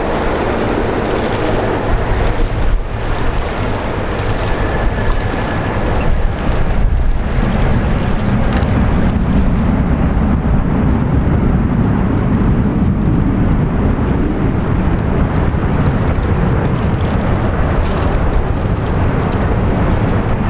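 Jet engine noise from a landing Boeing 737-800's CFM56 turbofans, a loud continuous rushing that grows heavier and deeper about seven seconds in, mixed with wind buffeting the microphone.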